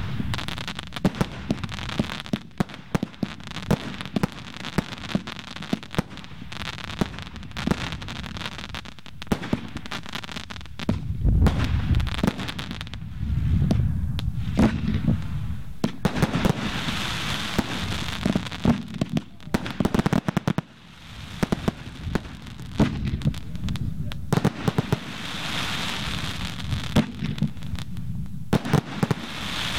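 Fireworks display: a dense run of sharp pops and bangs from aerial effects going off, with heavier booms around eleven to fifteen seconds in and stretches of hissing crackle.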